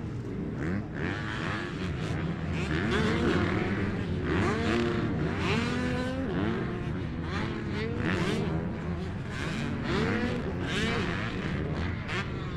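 Several motocross bikes racing. Their engines rise and fall in pitch over and over as the riders open and close the throttle through corners and jumps.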